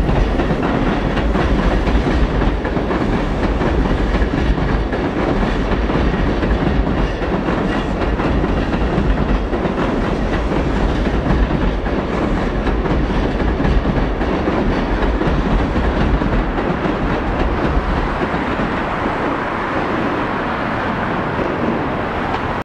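Seibu 001 series "Laview" electric limited express train running slowly past on the rails, a steady rumble of wheels and running gear. The low rumble eases off a few seconds before the end as the last cars go by.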